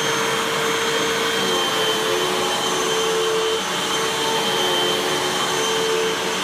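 Hoover WindTunnel 2 Rewind Pet upright vacuum cleaner running at full speed, a steady motor whine over rushing air.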